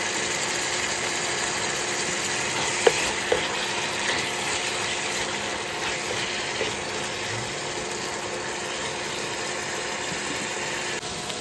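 Silkworm pupae and chilies frying in hot oil in a pan, sizzling steadily while a spatula stirs them. A couple of sharp clicks about three seconds in.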